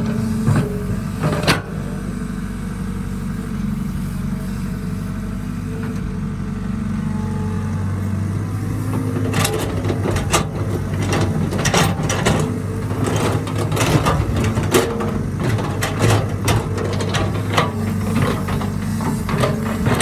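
Heavy diesel engine of earthmoving machinery running steadily, with a single knock about a second and a half in and a run of knocks and clatters through the second half.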